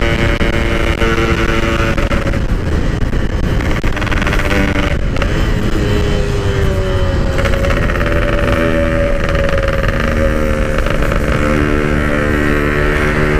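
Yamaha RX King's two-stroke single-cylinder engine running under way, with wind noise on the microphone; the engine note drops off about two seconds in, slides lower for several seconds, then settles and holds steady. The rider suspects the gearshift is sticking.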